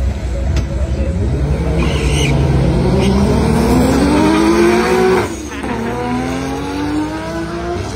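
Car engine under full-throttle acceleration on a drag-strip run, climbing steadily in pitch, then dropping sharply at a gear change about five seconds in before climbing again.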